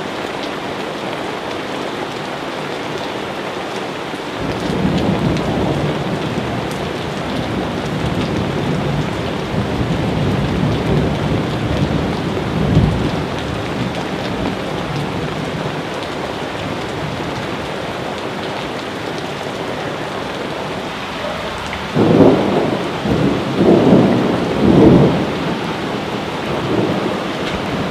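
Steady rain falling, with thunder rumbling: a long roll from about four seconds in, and a louder series of rumbles near the end.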